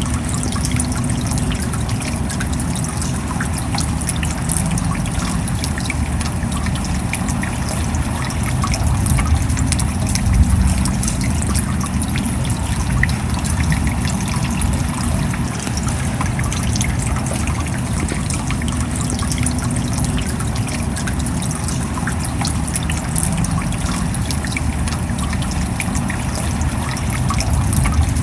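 Steady rainfall: a dense, even patter of many small drops, with water trickling.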